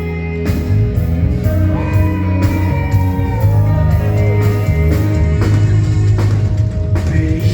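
Rock band playing an instrumental passage live: guitar lines over steady bass and drum hits.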